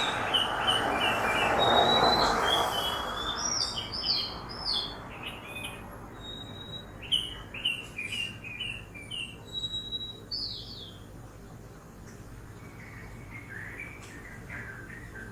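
Several songbirds chirping and whistling in quick, repeated phrases. A passing vehicle's rush swells and fades in the first few seconds, under steady low city noise.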